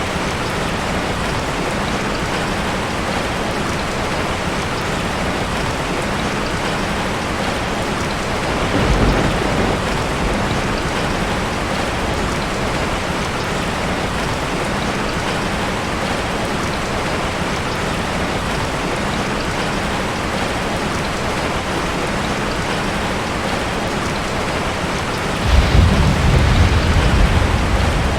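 Heavy rain drumming steadily on a tin roof. There is a short low rumble of thunder about a third of the way in, and a louder rumble of thunder breaks in suddenly near the end.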